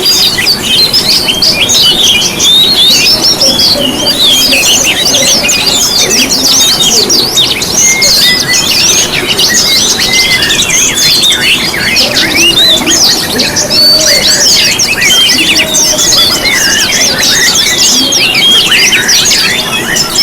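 Dense chorus of cage songbirds, many high chirps and trills overlapping without a break: a pancingan lure recording, played to set captive birds singing.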